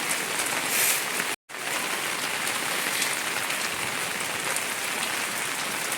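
Heavy rain falling as a steady hiss, cutting out completely for an instant about a second and a half in.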